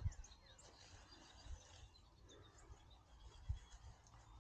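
Quiet outdoor ambience with faint, brief bird chirps and a few soft low thumps, one at the start and one about three and a half seconds in.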